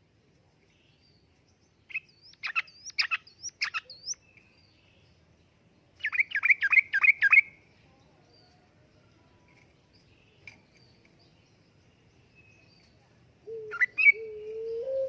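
Trucukan (yellow-vented bulbul) singing: a phrase of sharp, chirped notes about two seconds in, then a rapid run of about six notes around six seconds in. Near the end a low, steady hooting call starts.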